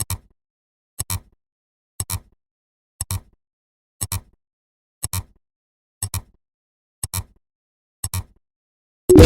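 Clock-style ticking, one quick double click every second, about nine in a row. Near the end, a loud bang with a long fading rumble, like an explosion.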